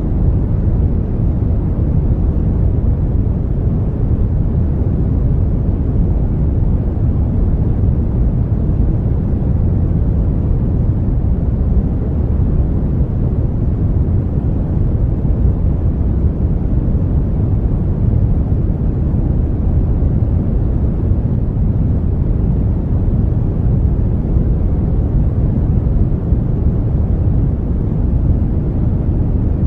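Steady synthetic brown noise: an even, deep rumble-like hiss with its energy heavy in the low end, unchanging throughout.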